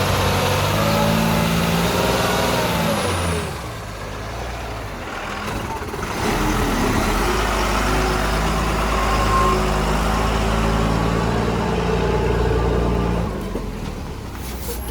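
Heavy Tata lorry's diesel engine pulling hard, easing off with a falling note about three and a half seconds in, then pulling hard again from about six seconds until it eases off near the end.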